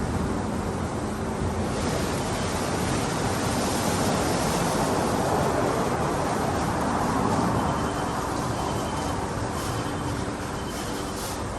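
Daifuku TWINFECT FORCE automatic car wash machine running, a steady rush of water spray and machinery that swells about two seconds in. A faint beep repeats about once a second in the last few seconds.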